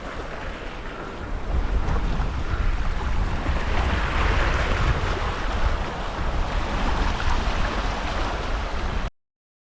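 Sea waves washing with wind buffeting the microphone; the low wind rumble grows stronger about a second and a half in. The sound cuts off suddenly near the end.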